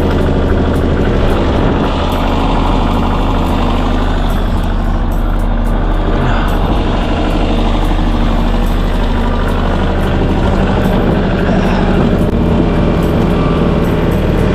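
Farm tractor engine running steadily just after a cold start in freezing weather.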